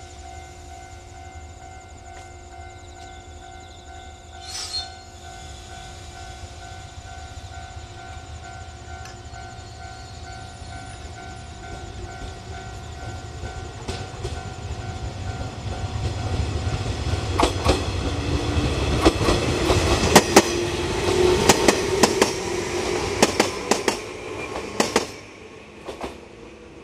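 Electric train running past close by: its running noise builds from about twelve seconds in, with a slowly rising motor whine and a quick series of sharp wheel clicks over the rail joints as the cars go by, dying away near the end. A short horn toot about five seconds in.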